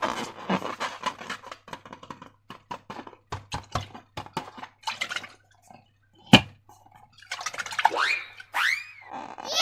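Slime and a rubber balloon being squeezed and worked by hand: a run of small wet clicks and crackles, with one sharp snap a little after six seconds. Near the end come a few short squeaks that glide up and down.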